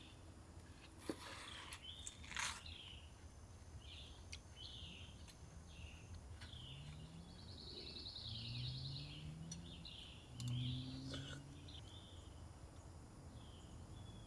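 Birds chirping repeatedly, with a rapid trill about eight seconds in. There is a sharp click about two seconds in, and a low hum rises in pitch a few times in the second half, loudest near eleven seconds.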